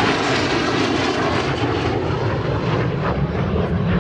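Fixed-wing aircraft flying past at an air show with loud, steady engine noise that swells in just before and holds throughout.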